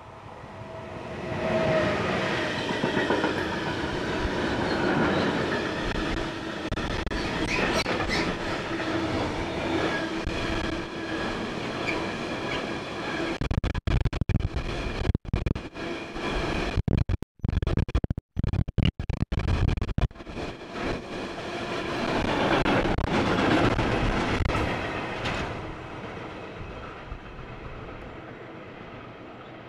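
DB class 185 electric locomotive passing close at speed with a container freight train, a steady electric hum from the locomotive over the rumble and clickety-clack of the wagons on the rails. About midway the sound stutters and drops out for several seconds, then the wagons swell again and fade as the train recedes.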